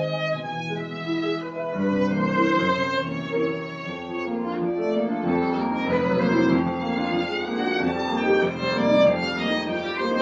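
Violin playing a slow melody of held notes over a lower sustained accompaniment.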